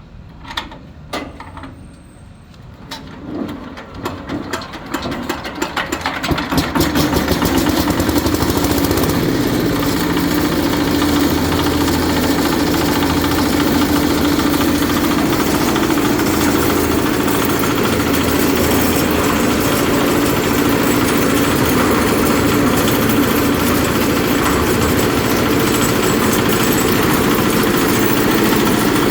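Single-cylinder 8 hp diesel engine of a 500-litre concrete mixer starting up: a few separate knocks that quicken over several seconds, then the engine catches about seven seconds in and runs steadily and loudly.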